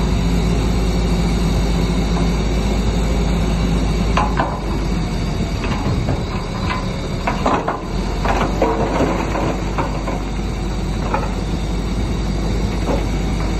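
Bulldozer's diesel engine running steadily, with scattered squeaks and knocks from about four seconds in, typical of the tracks and of stone being pushed.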